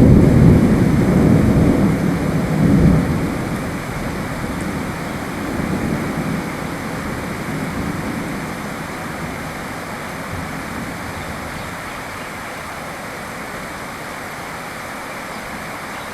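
Steady rain with a roll of thunder at the start that dies away over the first few seconds, swelling once more briefly before the rain is left alone.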